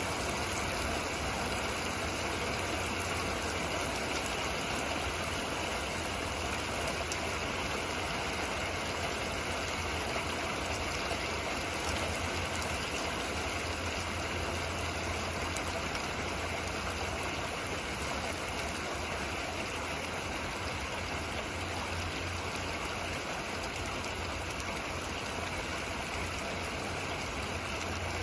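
Steady rain falling, an even hiss, over a constant low hum.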